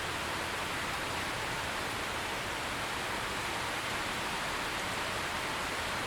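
Steady heavy rain falling, an even, unbroken hiss with no distinct drops or thunder.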